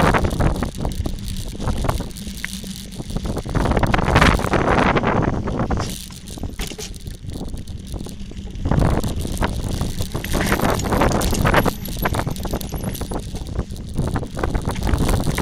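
Mountain bike clattering and rattling down a rough forest trail, the frame and parts shaking over roots and stones, with rumbling wind and ground noise on the microphone; the rattle comes in louder and quieter stretches.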